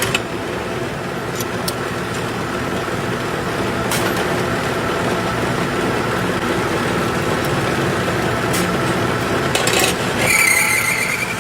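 Steady running noise of workshop machinery with a low hum, a few light clicks, and a brief higher-pitched whine near the end.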